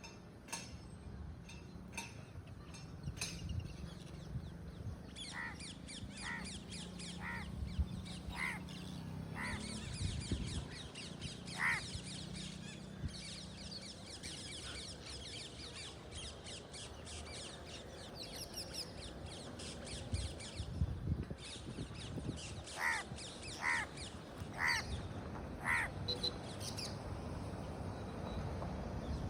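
A flock of birds calling: a dense, fast, high chatter with two runs of short harsh calls, about one a second.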